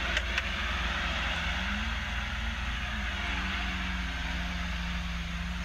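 A car engine running under a steady rushing noise, its pitch rising slightly about a second and a half in.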